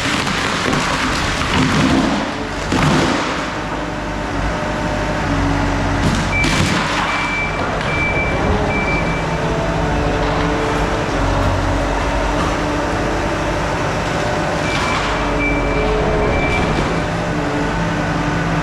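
Skid steer engine running and working hard, with cracking and crashing noise from timber and flooring in the grapple forks a few times. Twice a backup alarm beeps in a run of short repeated beeps while the machine reverses.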